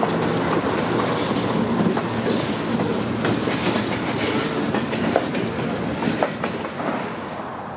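Freight train cars rolling past, wheels clicking over rail joints, the sound fading near the end as the train moves away.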